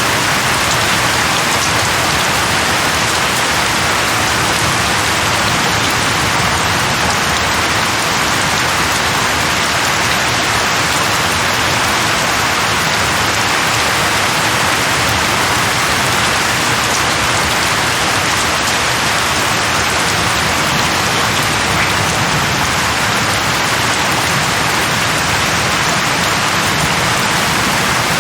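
Steady heavy rain falling on a surface, an even rushing hiss with fine drop patter and no thunder.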